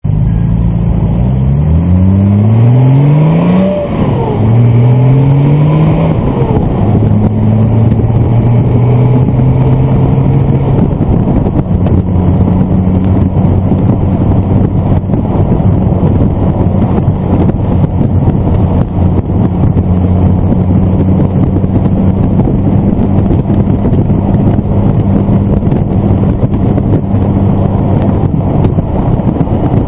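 Off-road vehicle's engine heard from inside the cab, accelerating up through the gears. The pitch rises, drops at a gear change about 4 s in, rises again and drops near 6–7 s, then holds steady at cruising speed under road and wind noise.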